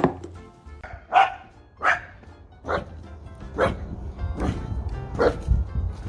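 A dog barking repeatedly, about six short barks spaced under a second apart.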